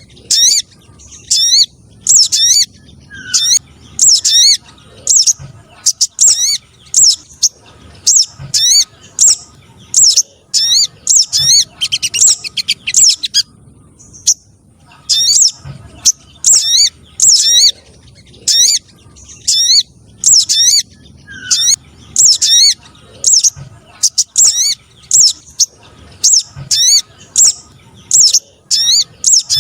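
Recorded calls of the sogon trotol, a spiderhunter, played as a lure for wild birds: repeated sharp, high chirps in quick series. There is a short break of about a second and a half around the middle.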